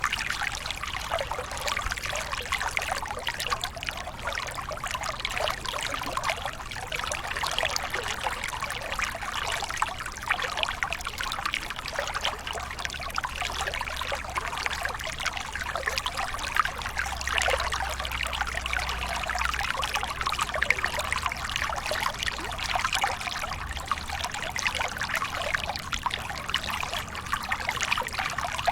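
Water from a small waterfall splashing and trickling steadily, a dense, even patter of many small splashes without a deep rumble.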